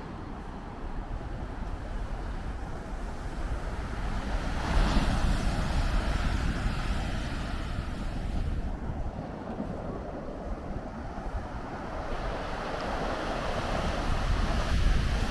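Blizzard wind blowing across the microphone, a steady rushing noise with heavy low rumble that swells about five seconds in and again near the end.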